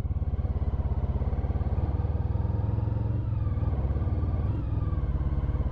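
Honda ST1300 Pan European's V4 engine running at low revs, a steady low pulsing beat.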